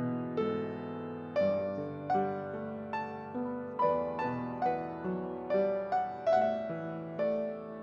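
Piano playing a slow, gentle piece: single notes and chords struck about once or twice a second, each ringing out and fading.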